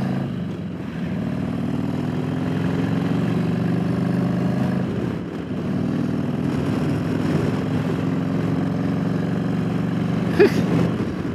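Motorcycle engine running steadily while riding down the road, with wind rushing over the microphone. The engine note dips briefly about five seconds in, and there is a short sharp sound near the end.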